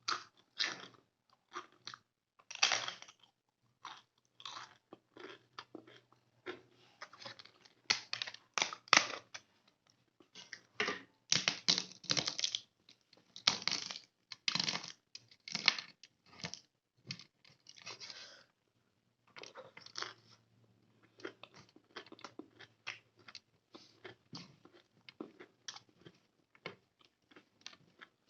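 A person chewing and biting a mouthful of chicken gravy and rice, in irregular bursts of chewing with short pauses in between.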